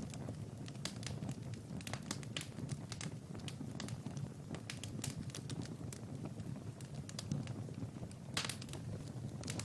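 Wood fire crackling in a fireplace: a steady low rumble of the flames with many sharp, irregular pops and snaps.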